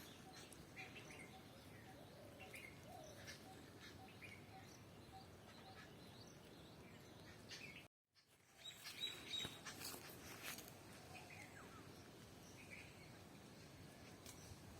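Faint, scattered bird chirps over quiet background hiss. The sound cuts out completely for a moment a little past halfway, then the chirps resume slightly louder.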